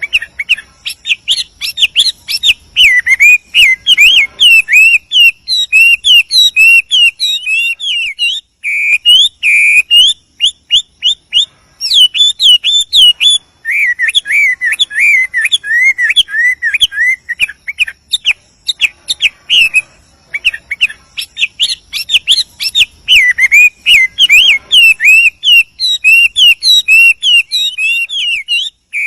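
Chinese hwamei (male) singing a long, continuous, rapid song of varied whistled notes and slurs, with a few short pauses between phrases.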